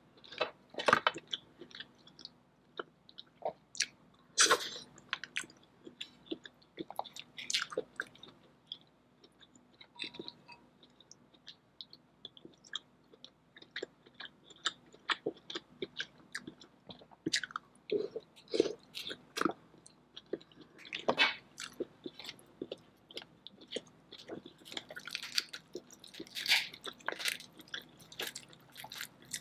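Close-miked eating sounds: a person chewing and biting king crab and lobster coated in a thick seafood boil sauce, with irregular sticky smacks and clicks that come in louder clusters.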